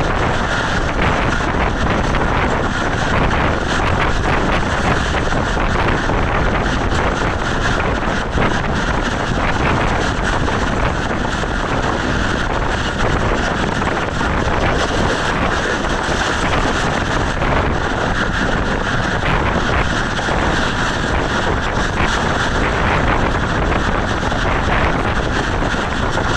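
Steady rumble and rush of a Pakistan Railways passenger train running at speed, heard from an open coach doorway, with wind buffeting the microphone throughout.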